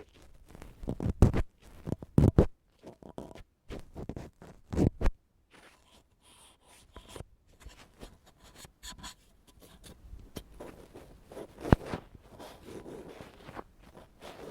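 Ear pick scraping and scratching in irregular strokes for ASMR ear cleaning. The first five seconds hold several louder, heavier rubs, then quieter scratching follows, with one sharp click near twelve seconds.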